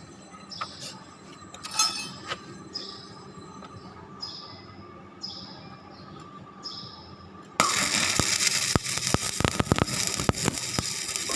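Light scraping strokes, about one a second, then a welding arc is struck about two-thirds of the way through and crackles loudly and steadily with many sharp snaps.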